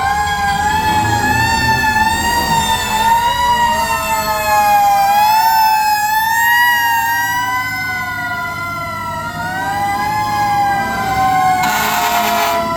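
Several fire truck sirens wailing at once, their slow rising and falling pitches overlapping, over the low rumble of truck engines.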